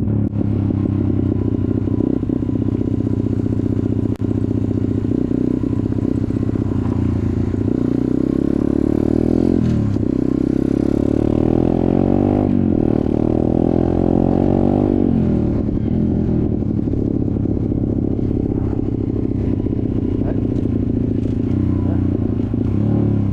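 Off-road motorcycle engine running under way, with clatter, revving up and easing off several times in the middle.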